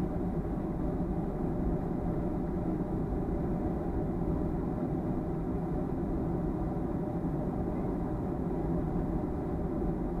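Steady cabin noise inside a Boeing 737-300: a low rumble from its CFM56-3 jet engines and airflow, with faint steady tones over it.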